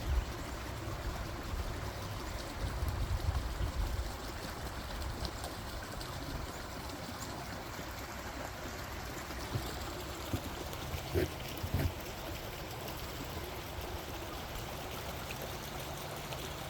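Stream of running water trickling steadily. A low rumble runs through the first few seconds, and a few light knocks come a little past the middle.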